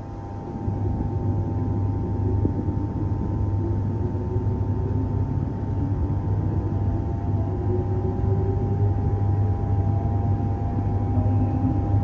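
Electric suburban train running, heard from inside the carriage: a steady low rumble and hum, with a fainter motor whine that slowly rises in pitch.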